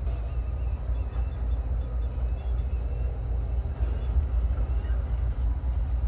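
Low, steady rumble of an approaching diesel-hauled freight train still some way off, with birds chirping and a steady high buzz above it.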